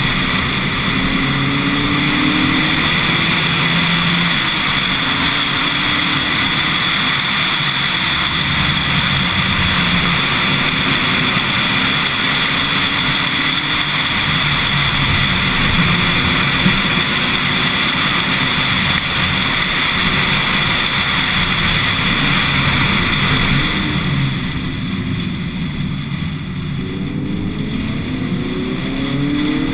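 Lotus Elise S1 111S's 1.8-litre Rover K-series VVC four-cylinder accelerating hard, its pitch climbing and stepping again and again through the gears. Near the end it eases off briefly, then picks up revs again.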